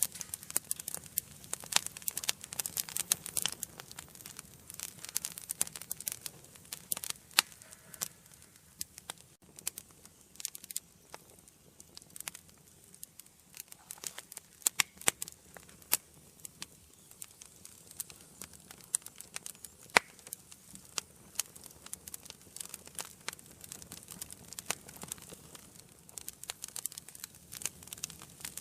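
Wood fire burning in a fireplace: a continuous run of irregular crackles and sharp pops from the burning logs, with a few louder pops standing out, the loudest about 20 seconds in.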